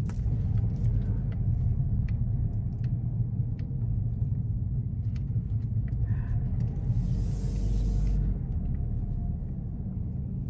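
Low, steady rumble of a car driving slowly, heard from inside the cabin, with faint scattered clicks and a brief hiss about seven seconds in.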